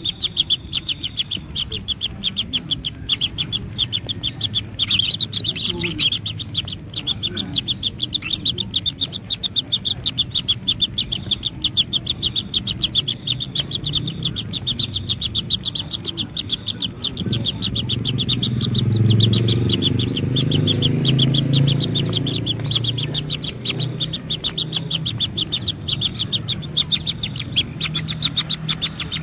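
Insects chirping in a steady, fast, even pulse with a constant high hiss above it. About halfway through, a low rumble swells for several seconds and fades.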